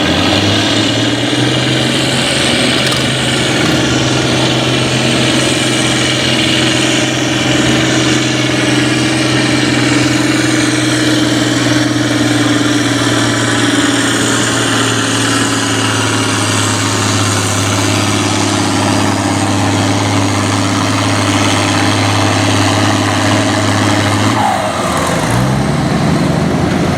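Farm tractor engine pulling under heavy load at a steady, high speed, its pitch held level for about 24 seconds before it drops off abruptly, then starts climbing again near the end.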